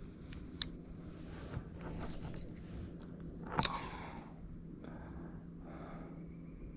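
Steady high-pitched insect chirring outdoors, with a sharp click about half a second in and a louder sharp knock a little past three and a half seconds in.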